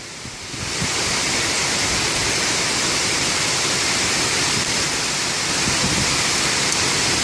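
Tropical-storm wind rushing through tall trees, a steady dense roar that swells up over about the first second and then holds level.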